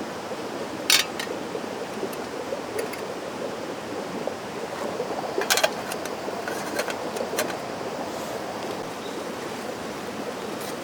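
Mountain stream rushing steadily, with a few short sharp clicks and knocks over it.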